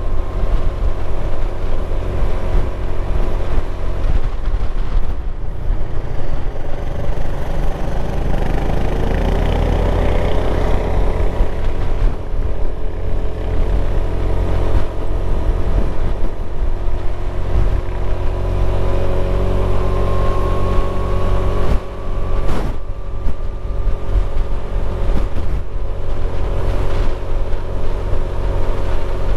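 Motorcycle engine running while riding, under heavy wind rumble on the microphone; the engine note rises as it accelerates about a third of the way in and rises again a little past halfway.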